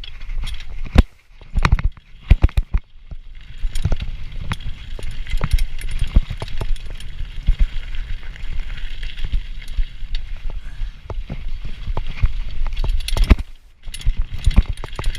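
Hardtail mountain bike ridden over rough trail: the frame and chain rattle with many irregular knocks over steady tyre and ground noise and a low rumble, dropping away briefly a few times.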